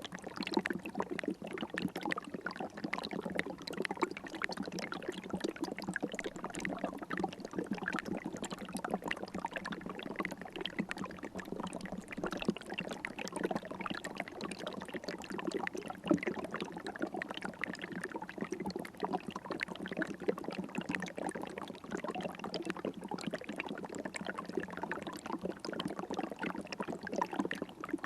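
River water running steadily, an even, unbroken rush.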